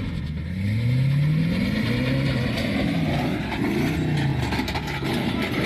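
A motor vehicle's engine revving, its pitch climbing and falling back several times in a row.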